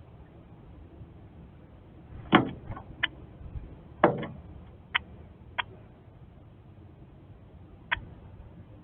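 A northern cardinal attacking a window pane: two heavy knocks as it slams into the glass, about two and four seconds in, between several sharp single taps of its beak pecking the glass.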